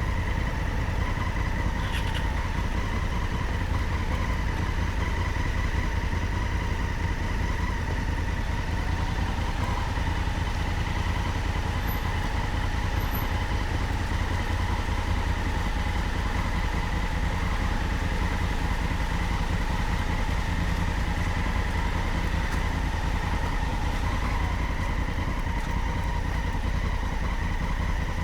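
Maxi-enduro motorcycle engine running at a low, steady speed, with a strong deep rumble and a steady whine that dips slightly about nine seconds in.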